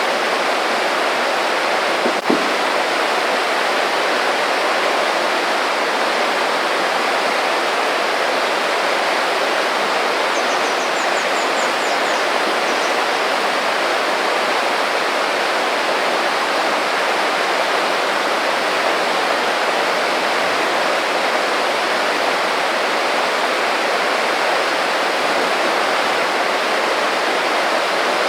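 Small creek babbling steadily over its bed. A single short knock comes about two seconds in, and faint high bird chirps twitter briefly near the middle.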